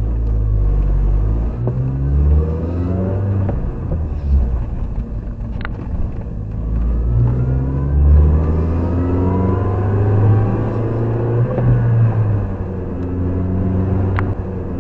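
Mini Cooper S R53's supercharged four-cylinder engine pulling the car on the road, its pitch rising several times and dropping back as it accelerates through the gears, with road noise under it. It runs smoothly, with no odd engine noises after a new timing chain.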